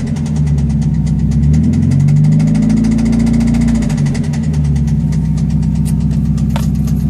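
Mazda Miata four-cylinder engine running at around idle, pitch rising and falling slightly, with a fast, regular knock throughout. It was posted as either rod knock or a lifter (hydraulic lash adjuster) tick, and the owner later judged it rod knock because the engine blew.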